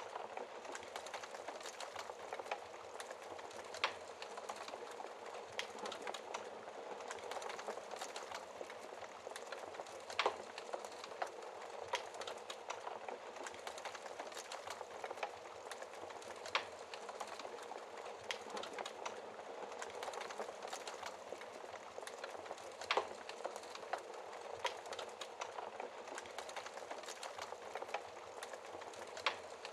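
Wood fire crackling over a steady hiss of rain, with many small crackles and a sharper pop about every six seconds.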